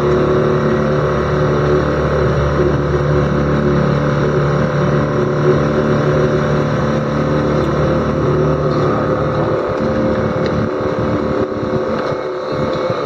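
Motorboat engine running steadily while the boat ferries people across the river.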